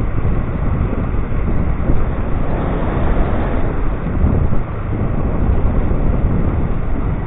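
Steady wind rushing over the microphone, with rumble from a Dualtron Popular electric scooter riding along.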